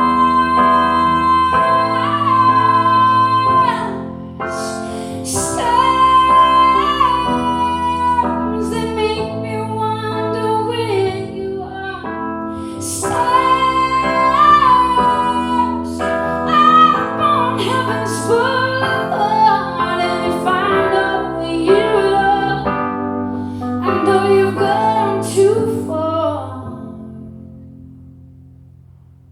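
A woman singing a slow ballad live, accompanied by piano. The song dies away over the last few seconds as the final notes fade out.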